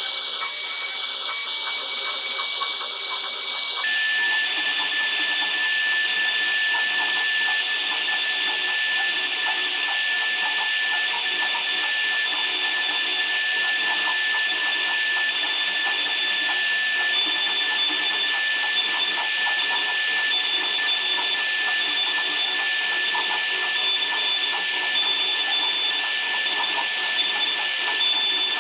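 Power woodworking machine running steadily with a high whine over a loud hiss; about four seconds in, the whine drops slightly in pitch and the hiss grows, then holds steady.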